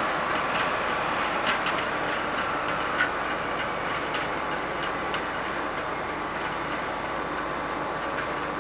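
Steady running noise of a train, an even rumble and hiss, with a few faint clicks from the wheels over the rails.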